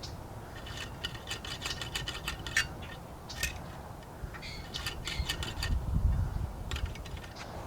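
Small metal-on-metal clicking and scraping in quick clusters, a hand tool working in the cooling water passage of a 1968 Evinrude 6 hp outboard to clear debris out of it, with a low rumble swelling near the end.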